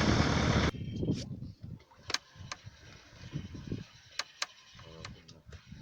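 A boat engine running loud for under a second, then cutting off sharply. After that a quiet stretch with a few scattered sharp clicks and faint, indistinct voices.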